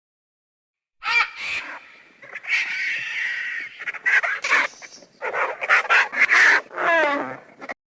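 Bird calls: a rapid run of loud calls and squawks of varying pitch, with one falling call near the end. They start abruptly about a second in and cut off just before the end.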